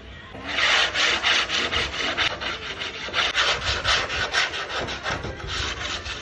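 A hand tool or abrasive rubbing back and forth on wood in quick, even strokes, about four a second, starting about half a second in.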